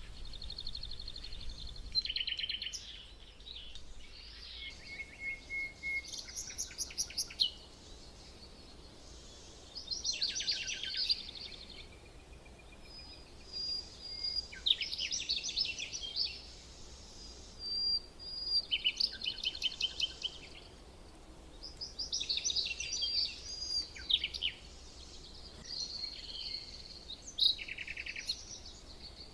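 Small songbirds calling and singing, in repeated bursts of rapid chirps and trills with a few thin whistled notes.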